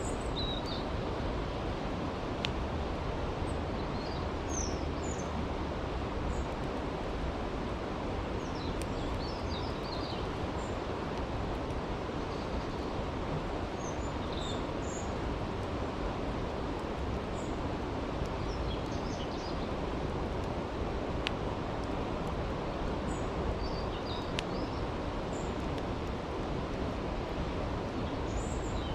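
Steady rushing of a brook, with a few sharp crackles from a campfire and scattered high bird chirps.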